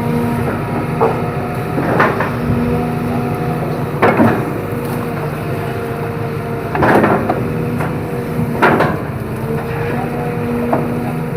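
Hydraulic excavator's diesel engine running steadily, with four sharp cracking knocks a couple of seconds apart as the machine works through bamboo and mud.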